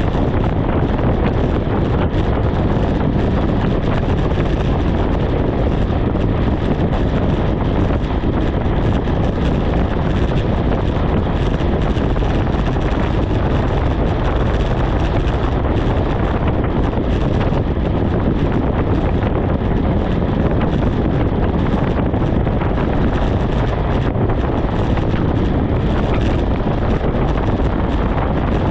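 Loud, steady wind rushing over the microphone of a bicycle-mounted camera, from riding downhill at speed.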